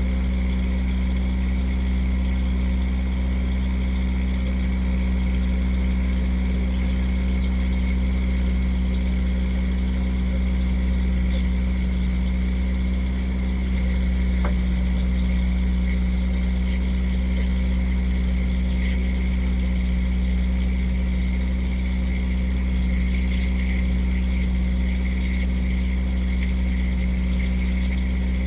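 A motorboat's engine running steadily, a constant low hum that does not change in speed.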